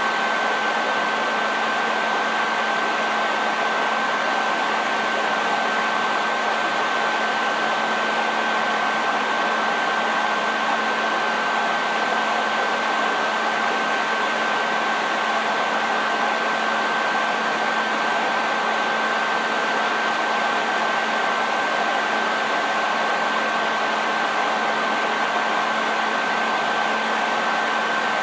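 Hair dryer running steadily on one setting, a continuous rush of blown air with a steady whine from its fan motor.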